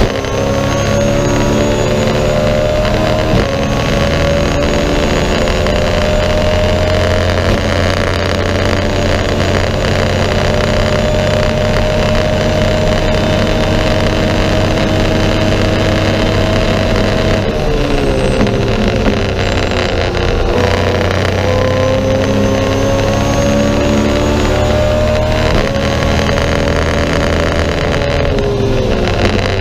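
BMW M3 E90's V8 engine running at high revs under full throttle, heard from inside the race car's stripped cabin. The pitch climbs and steps down with each quick upshift, a few seconds in and again a few seconds later, then rises slowly for a long pull. It falls away about two-thirds through as the driver lifts, then climbs again with more shifts near the end.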